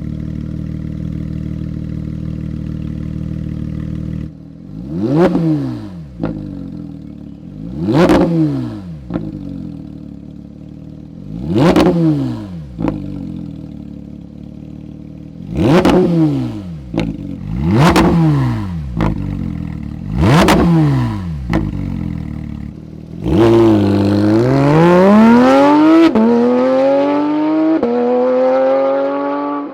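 Porsche 992 GT3 RS naturally aspirated 4.0-litre flat-six through a Sharkwerks aftermarket exhaust: idling steadily, then blipped six times in quick sharp revs that fall back to idle. Near the end comes a longer pull whose pitch climbs steadily, with one brief break partway through.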